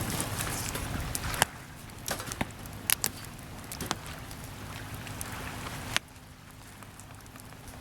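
Wood campfire crackling with sharp pops and snaps, over a steady wash of sea waves. The wash drops abruptly about a second and a half in and again near the end.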